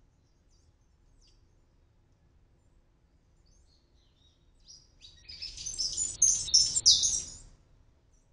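Palm tanager calling: a few faint, high chirps, then about halfway through a loud, rapid run of high chirps lasting about three seconds that stops abruptly.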